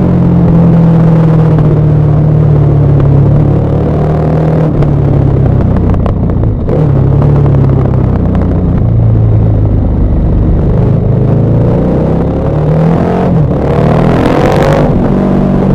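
KTM 1190 Adventure R's LC8 V-twin engine running as the motorcycle is ridden downhill, its pitch stepping and shifting with throttle and gear changes. About 13 seconds in the revs rise as it accelerates.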